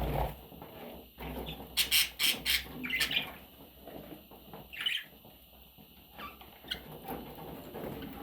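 Budgerigar giving short, high-pitched squawks and chirps, a quick cluster about two seconds in, then single calls near three and five seconds and fainter ones after.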